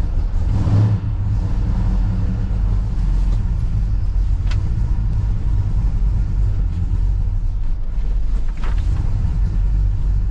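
Classic muscle car's engine running at idle, a steady low rumble.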